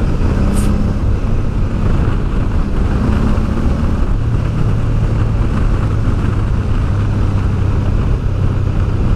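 Honda Deauville's 650 V-twin engine running steadily under way, with wind rushing over the microphone. A brief high tick about half a second in.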